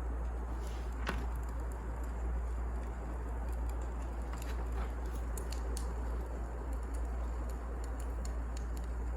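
Firewood burning in a fireplace: a steady low rush with scattered sharp crackles and pops, one clearer pop about a second in.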